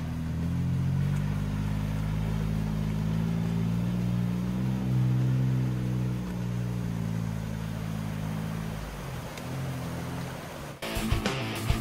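Jeep Wrangler engine running at low speed, with small rises and dips in pitch, as it crawls through the creek crossing and fades away as it drives off. About a second before the end, music cuts in.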